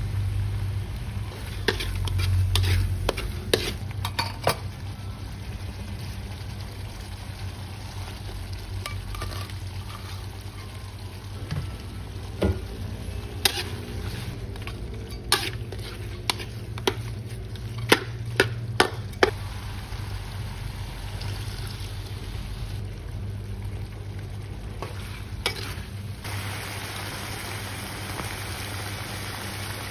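Fish and spiced masala frying in a metal wok with a steady sizzle, while a metal spatula stirs and clicks against the pan several times, in a few knocks early on and a cluster in the middle. Near the end the sizzle gets brighter as the curry bubbles.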